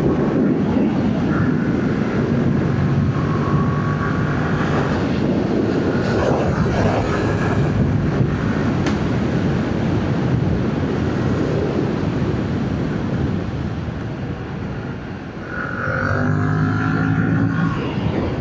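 Yamaha MT-07's parallel-twin engine on its stock exhaust, running under way with wind noise on the microphone. Near the end the engine eases off briefly, then pulls again with its pitch rising.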